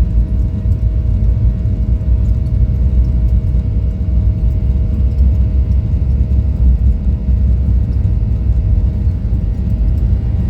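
Steady cabin noise of a Boeing 737-800 in flight: a deep, even rumble of engines and airflow with a constant hum on top.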